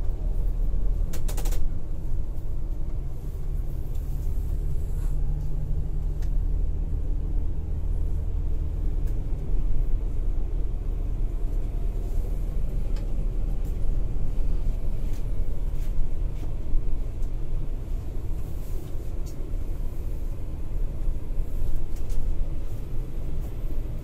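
Scania K410iB coach on the highway, heard from the passenger cabin: steady low engine and road rumble at cruising speed, with a brief rattle about a second in.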